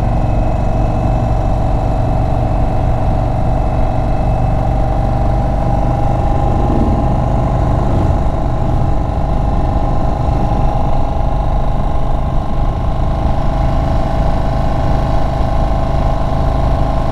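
Indian Chief Bobber Dark Horse's air-cooled V-twin engine running steadily while the bike cruises on the road, its engine note holding almost constant throughout.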